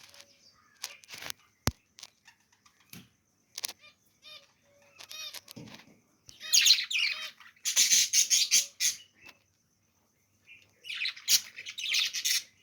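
Budgerigars chirping and chattering in two loud bursts of rapid high warbling, with short clicks and brief quiet gaps between.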